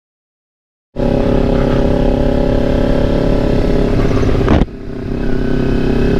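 Silence for about a second, then a Kawasaki Ninja 250 motorcycle engine running loudly while under way. The sound dips about four and a half seconds in and builds again near the end.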